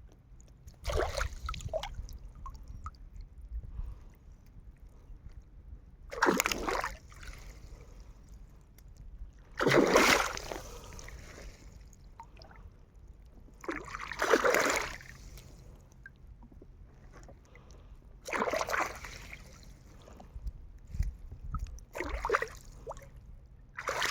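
Water splashing in separate bursts of about a second each, roughly every four seconds, over a low rumble.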